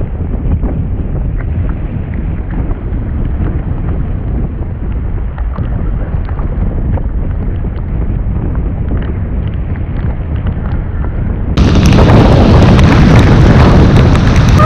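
Wind rushing and buffeting over the microphone, dull and muffled with a low rumble, then a cut about twelve seconds in to louder, brighter rushing noise.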